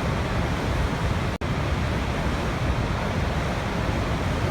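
Waterfall: a steady, heavy rush of falling water, deepest in the low end, with a split-second break in the sound about a second and a half in.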